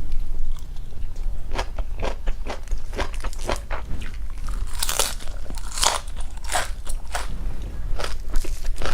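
A person chewing and biting crunchy vegetables: a run of crisp crunches and small clicks, with the loudest crunches about five and six seconds in.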